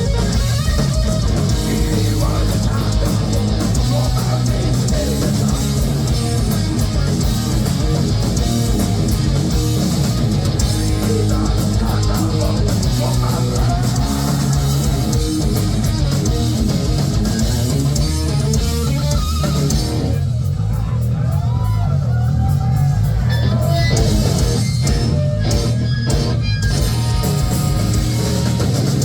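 Live heavy metal band playing, with distorted electric guitars, bass and drums. About twenty seconds in the cymbals and high end drop away for a few seconds, leaving the bass and bending guitar notes, before the drums come back in with separate hits.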